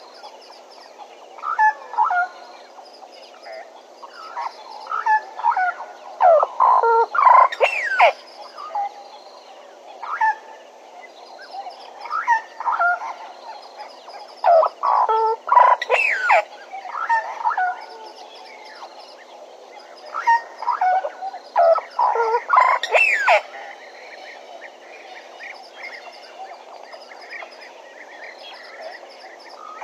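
Bennett's woodpecker calling: three bouts of loud, rapid, harsh chattering calls a few seconds apart, each bout a run of quick notes that grows louder toward its end.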